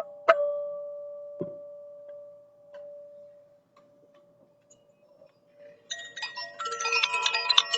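A single-pitched, bell-like struck tone is hit once just after the start and rings out, fading slowly over about four seconds, with a low knock soon after. About six seconds in, chimes start jingling with many high ringing notes at once.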